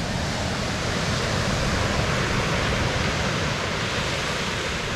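Steady rush of water, a hiss that swells a little midway.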